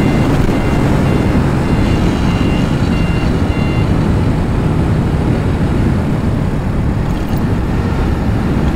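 Motorcycle riding noise at highway speed: a steady low rumble of engine, tyres and wind. For the first four seconds it carries a repeated electronic beep, about two a second.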